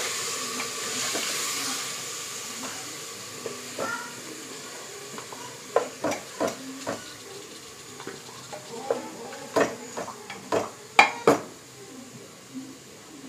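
Duck meat and spices sizzling in hot oil in a pressure cooker pot as a wooden spatula stirs; the sizzle fades over the first few seconds. Then comes a run of sharp knocks and scrapes of the spatula against the metal pot, the loudest about eleven seconds in.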